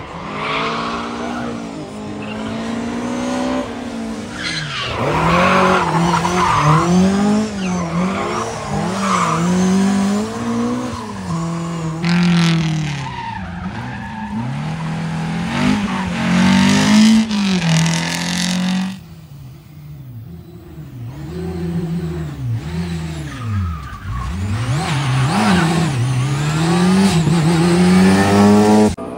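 Rally car engine revving hard, its pitch climbing and falling over and over as the car is thrown around, with tyres squealing. About nineteen seconds in the sound drops away sharply, then builds to hard revving again and cuts off suddenly near the end.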